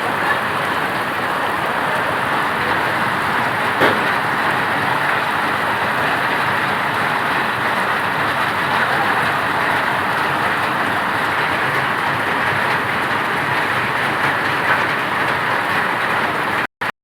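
Rain falling steadily, an even hiss with one sharp tap about four seconds in. It cuts off abruptly near the end.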